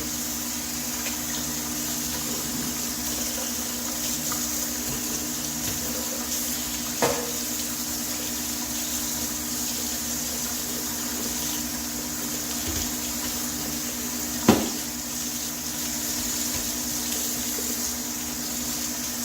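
Steady running water rinsing degreaser off a metal HVAC vent register, with a low hum under it and two short knocks, the second louder.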